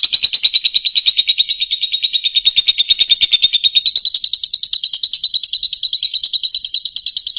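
Fischer's lovebird singing one long, unbroken rapid trill of high chattering notes, about a dozen a second.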